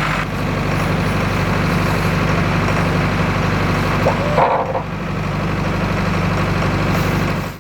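Isuzu NPR-HD box truck engine idling steadily, with a brief higher-pitched sound about four and a half seconds in.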